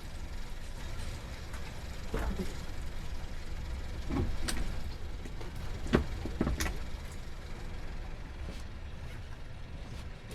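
Boat engine idling with a steady low rumble, broken by a few sharp knocks and bumps about two, four and a half, six and six and a half seconds in.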